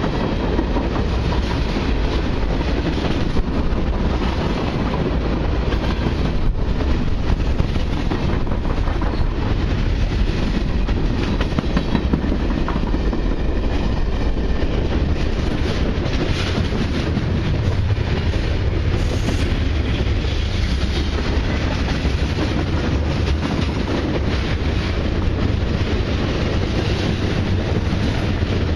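Long CN freight train of mixed cars and autoracks rolling past close by: a steady rumble with a continual run of wheel clicks on the rails.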